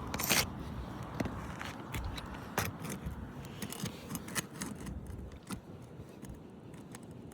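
Metal roof snake working under an asphalt shingle to break its seal: scattered light clicks, ticks and short scrapes of metal and grit against the shingle, the sharpest just after the start and about two and a half seconds in.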